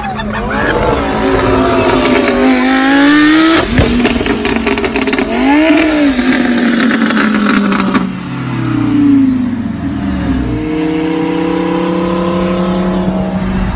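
Lamborghini Huracán engine breathing through open, exposed exhaust pipes, revved up and down several times with a rapid crackling run about four seconds in. In the second half an engine accelerates, its pitch climbing steadily.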